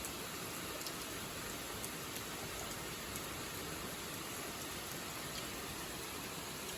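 Heavy rain pouring down steadily in a thunderstorm: an even hiss, with a few faint drop ticks.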